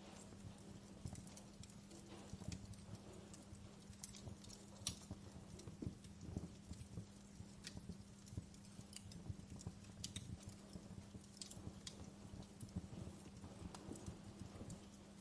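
Wood fire crackling softly, with irregular small pops and snaps, over a faint steady low hum.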